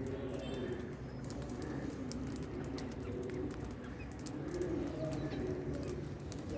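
Birds calling: pigeons cooing low and wavering, with faint chirps over them and many short sharp clicks.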